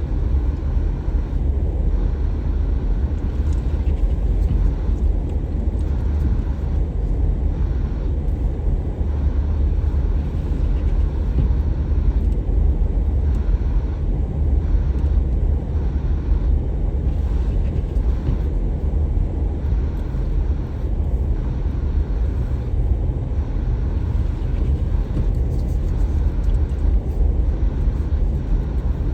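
Steady low rumble of a car driving, road and engine noise with no sudden changes.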